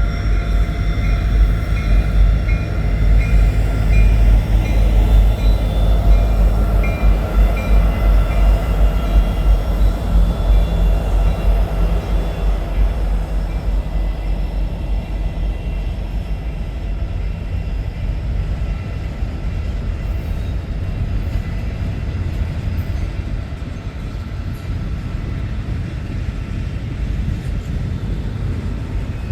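Freight train passing with diesel locomotives rumbling loudest over the first dozen seconds, a high tone pulsing about twice a second through the first several seconds. The train cars then roll by on the rails with a steadier, softer rumble.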